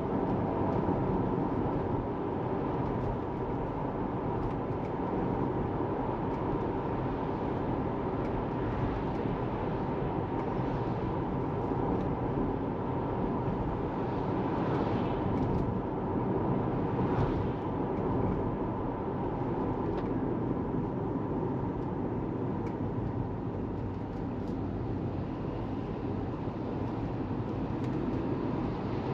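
Steady tyre and road noise from a Tesla Model 3, an electric car, driving along, with a couple of faint swells of passing traffic around the middle.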